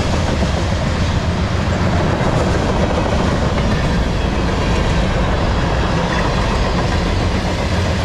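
Freight train's tank cars and covered hoppers rolling past close by: a steady, unbroken rumble and rattle of the passing cars on the rails.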